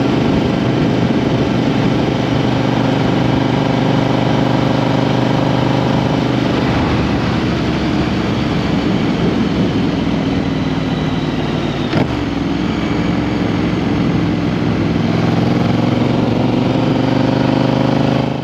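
2022 Triumph Street Twin's 900 cc parallel-twin engine running under way, picked up by a microphone under the seat. A single sharp click comes about twelve seconds in, and the revs rise gently near the end.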